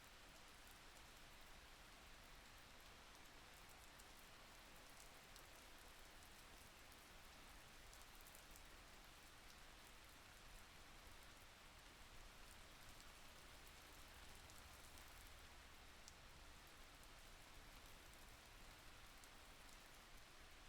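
Faint steady rain, an even hiss with scattered light drop ticks.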